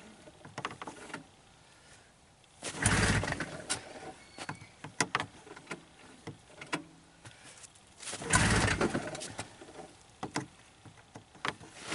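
Two pulls on the recoil starter of a Ski-Doo Formula STX's Rotax 583 two-stroke twin, each about a second of the engine turning over without catching, with light clicks between them. The owner takes the cold-start failure for flooding, with the plugs fouled by fuel.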